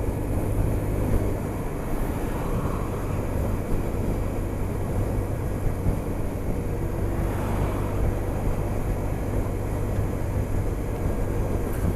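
Steady drone of a vehicle cruising on a motorway: a constant low engine hum under even road and wind noise.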